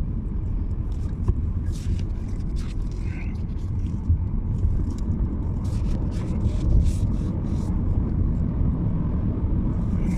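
Steady low road rumble of a car driving along, with a few faint light ticks.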